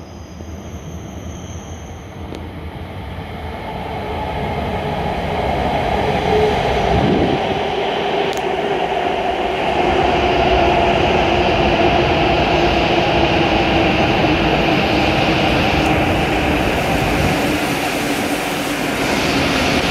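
W7 series Shinkansen train pulling in along a station platform. Its rumble grows louder over the first six seconds as it comes near, then holds steady, with a whine that slowly falls in pitch as the train slows for its stop.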